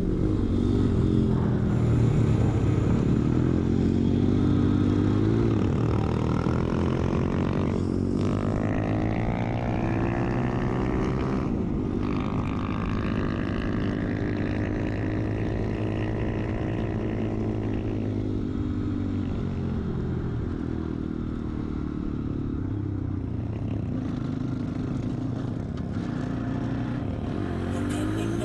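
A vehicle engine pulling through the gears: its pitch climbs, breaks at gear changes about eight and twelve seconds in, then eases off and falls before rising again near the end.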